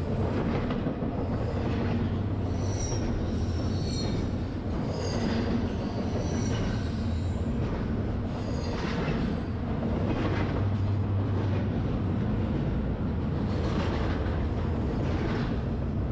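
Freight train rolling on curving track: a steady low rumble of locomotives and cars with swells every second or two, and a few short high-pitched wheel squeals a few seconds in.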